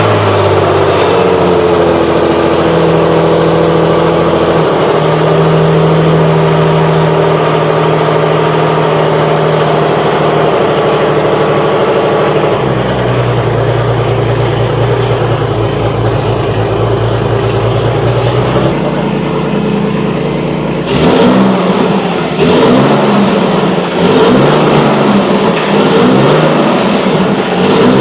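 Nissan 350Z's V6 engine just started and idling through a new Invidia Gemini cat-back exhaust, its idle stepping down twice as it settles. From about two-thirds of the way in, several short throttle revs. The exhaust now has a muffler in place of straight pipes.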